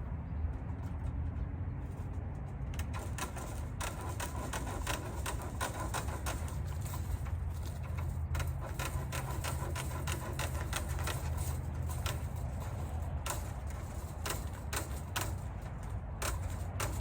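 Wire hardware cloth being cut with snips: a long series of sharp, irregular clicks as each wire is snipped, some in quick runs, over a steady low rumble.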